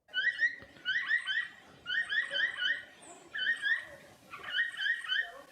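Capybara giving short, high chirping whistles in quick clusters of three or four, about one cluster a second.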